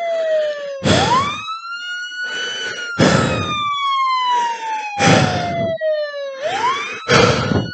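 Police car siren in a slow wail. The tone rises quickly about a second in, falls slowly over about five seconds, and rises again near the end. Short, loud bursts of rushing noise cut across it roughly every two seconds and are the loudest sounds.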